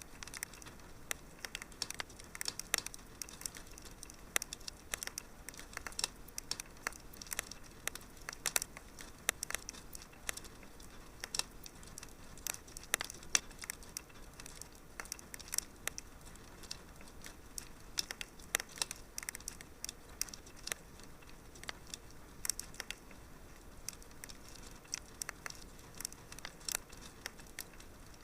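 Fire crackling in a fireplace: a steady hiss under frequent, irregular crackles and pops.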